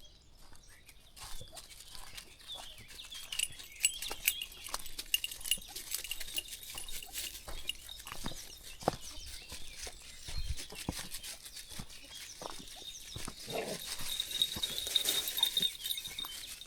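Dog sounds over a string of short crunching footstep clicks on a country path, with high bird chirps a few seconds in and again near the end.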